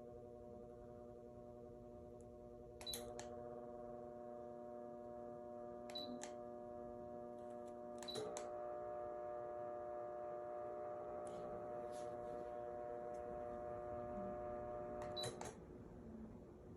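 CJOY small ceiling fan's motor running with a faint steady hum, stepped through its speeds from the remote: short beeps from the fan's receiver at each button press, the hum growing louder and fuller after the presses about three and eight seconds in, then falling away after a last beep near the end as the fan is switched down or off.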